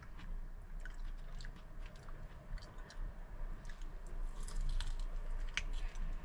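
A person biting into and chewing food close to the microphone: wet mouth sounds and small crunches that come as scattered short clicks, busiest about four to six seconds in.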